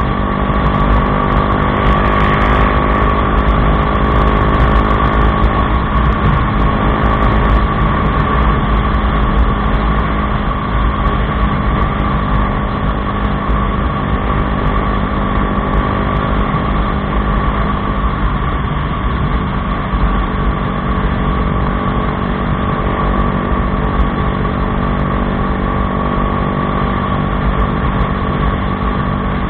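Bajaj Dominar 400's single-cylinder engine running through an aftermarket Akrapović exhaust, holding a steady, even pitch.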